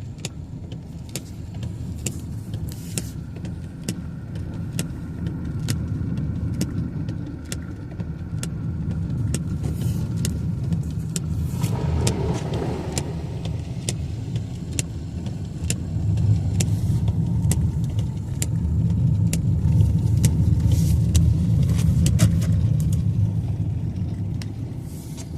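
Car driving on a wet road in heavy rain, heard from inside the cabin: a steady low road and engine rumble under many sharp, irregular taps, with a brief swell of noise about halfway and the rumble growing louder in the second half.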